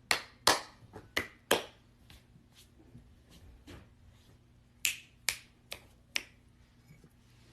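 A run of sharp snaps: four loud ones in quick succession, some fainter ones, then another four about five seconds in.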